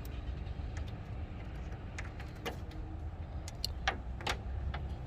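A few sharp metallic clicks and light knocks from hand tools on an opened AC pipe fitting: one about two and a half seconds in, and a cluster near four seconds. Under them runs a steady low rumble.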